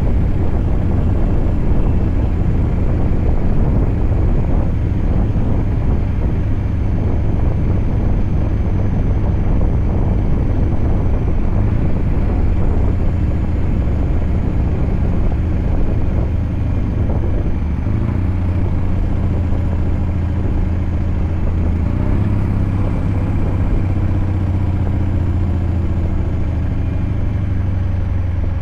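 Scania V8 truck engine running steadily under way, a deep low drone over road noise. Its tone becomes a little clearer and quieter in the second half.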